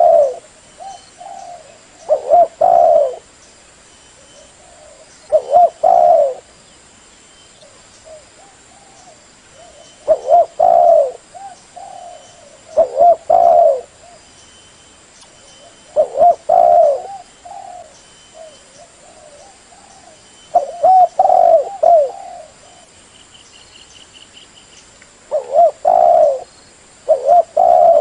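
Spotted dove cooing, a decoy call for luring wild doves: short multi-note coo phrases repeated every few seconds.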